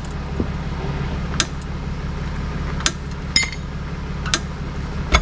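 A vehicle engine idling steadily, with a series of sharp clinks about every second or so over it.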